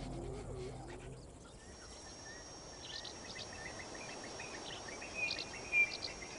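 Quiet outdoor ambience with small birds chirping: short high calls begin about two seconds in and come in scattered groups, over a faint steady high tone.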